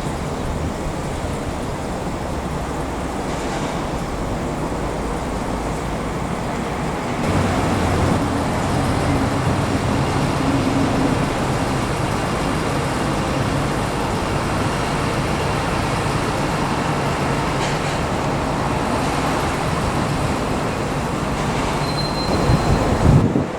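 Diesel switcher shunting retired train cars, its engine running steadily and getting louder about seven seconds in.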